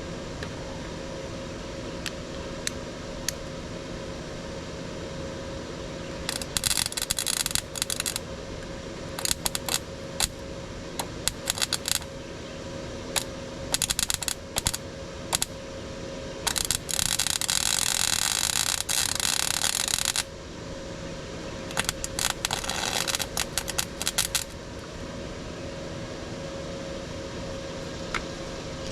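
Workshop tool noise in repeated bursts that start and stop abruptly, the longest held for about three and a half seconds, over a steady background hum.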